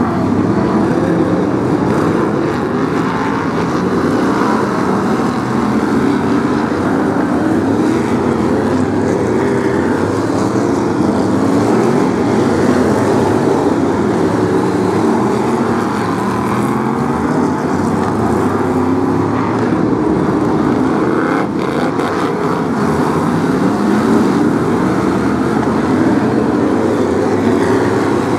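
A pack of BriSCA F1 stock cars' V8 engines running together at racing speed: a dense, continuous engine din in which many engines rise and fall in pitch over one another as the cars accelerate and lift.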